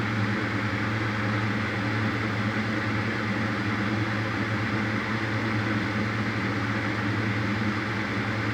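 Steady, unchanging machine hum with a constant hiss.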